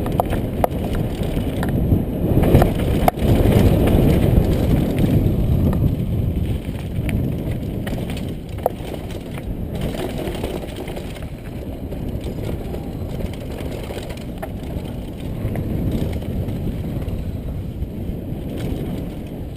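Mountain bike descending a rough, rocky downhill trail: tyres rumbling over dirt and rocks, with frequent sharp clicks and knocks from the bike rattling over bumps. It is loudest a few seconds in.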